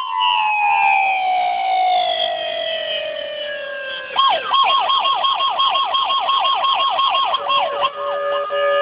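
Police car electronic siren: a long wail winding down in pitch for about four seconds, then switching to a fast yelp that sweeps up and down about six times a second. Near the end it gives way to steady held tones.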